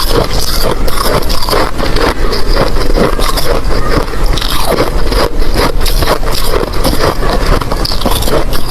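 A person biting and chewing ice: a loud, unbroken run of crunches and crackles.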